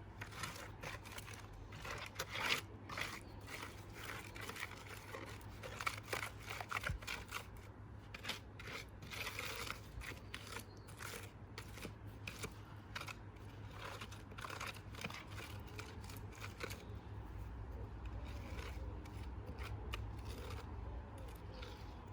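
Irregular gritty scraping and crunching strokes of a hand tool working through cement mix, thinning out about 17 seconds in, over a steady low hum.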